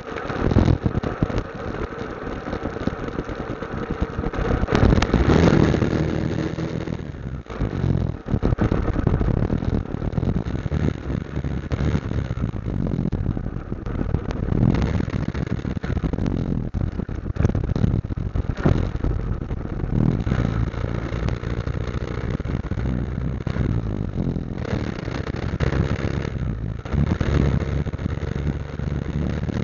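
Motorcycle engine running on the move, with rushing noise over it and a louder stretch about five seconds in.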